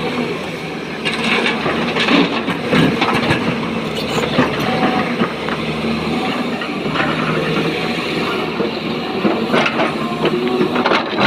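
Diesel engine of a SANY excavator running steadily under load, with irregular knocks and clattering of quarry stone as rock is loaded into a tipper truck.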